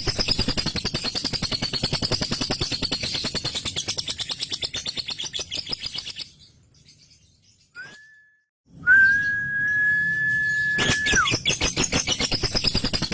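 Male lovebird's long ngekek chatter: a fast, unbroken run of harsh chirps, about ten a second, that fades out about six seconds in. After a pause of about two seconds a steady high whistle holds for about two seconds and drops at its end, and the rapid chattering starts again.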